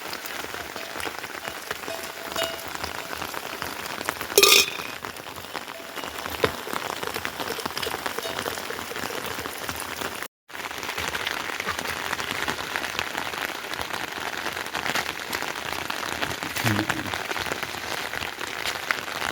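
Steady heavy rain falling, a dense hiss of drops, with one sharp knock about four and a half seconds in and a brief voice near the end.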